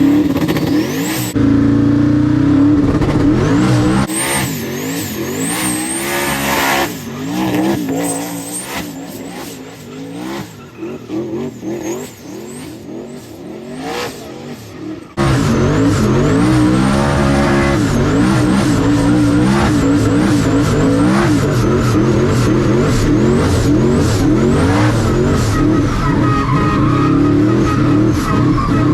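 Turbocharged V8 race car engine revving hard again and again while the tires squeal and skid through a burnout and donuts. About halfway through, the sound jumps abruptly to a steadier, louder stretch of high-rev running with tire squeal.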